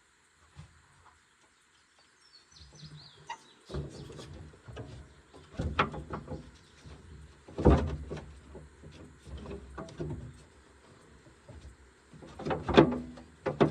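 Irregular metallic clanks and knocks of tools and machine parts being handled, the loudest about halfway and near the end, with a brief high squeak near the start.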